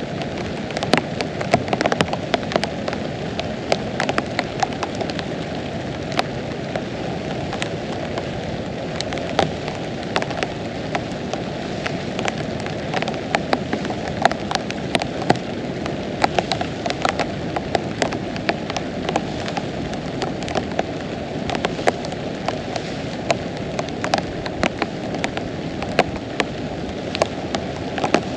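Heavy rain falling steadily, a dense hiss with many sharp, irregular taps of individual drops striking close by.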